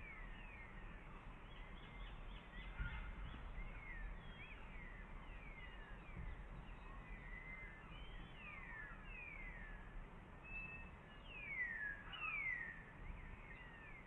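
Birds calling in the background: many short notes, each sliding down in pitch, overlapping one another, with two louder ones about three-quarters of the way through. A low rumble runs underneath.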